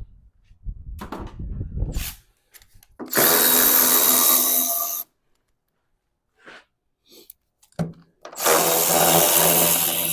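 A power tool runs in two bursts of about two seconds each, driving out headlight mounting bolts. A few light knocks and handling sounds come between the bursts.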